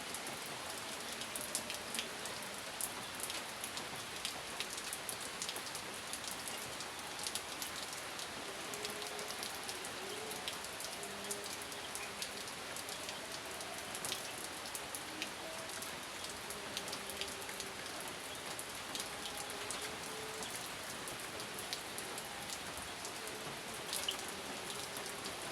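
Steady rain falling, with many individual drops ticking sharply against a nearby surface over an even hiss. No thunder is heard.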